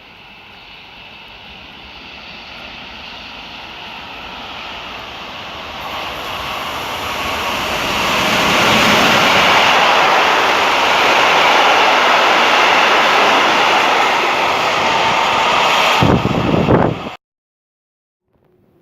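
A train approaching along the line, its rushing noise growing over several seconds into a loud, steady rush as it passes close by, then cut off abruptly near the end.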